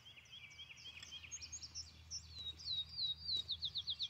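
Songbirds singing: scattered high chirps, then one bird's run of quick, falling whistled notes that speeds up into a trill near the end.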